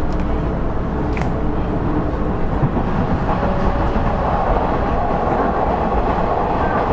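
KiHa 112 diesel railcar running along the line, heard from on board: a steady mix of diesel engine and wheel-on-rail noise. There is a single click about a second in, and a higher-pitched band of running noise grows louder from about three seconds in.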